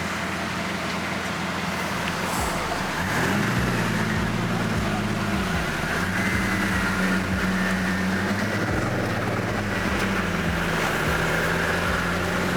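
Car engine running, its pitch rising about three seconds in and then holding steady.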